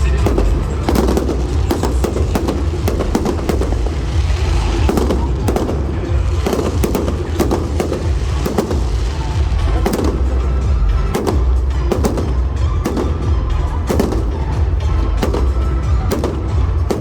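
Fireworks display: a rapid, continuous series of bangs and crackles from exploding aerial shells, with music playing underneath.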